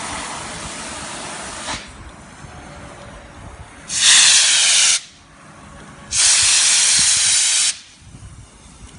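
Gas hissing from an oxy-fuel torch: a steady hiss that drops away just before two seconds in, then two loud blasts of gas. The first lasts about a second and the second about a second and a half, and each starts and stops abruptly.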